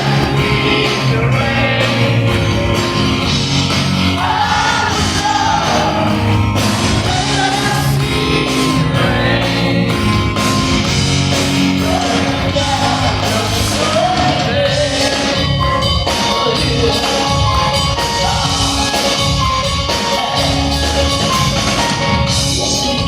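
Live rock band playing a song with drums, bass and keyboards while a woman sings lead, heard in a large concert hall.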